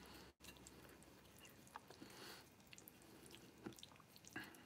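Faint chewing of noodles, with a few light clicks from chopsticks picking at the plate.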